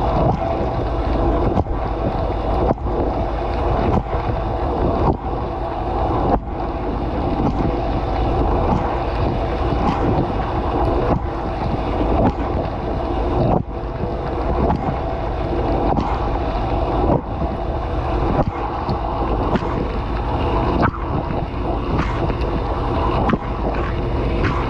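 Dishwasher running, heard from inside the tub: a steady rush of water spraying onto the dishes and the camera. A swish recurs about every second, as the spray hits in a regular rhythm.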